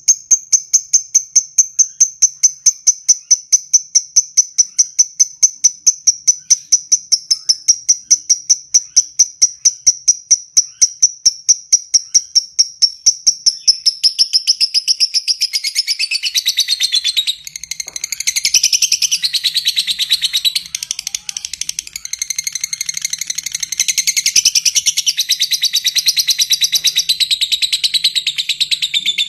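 Lovebird calling in a rapid run of short, high ticking chirps, about five a second (the 'ngetik' call). About halfway it breaks into a denser, continuous shrill chatter.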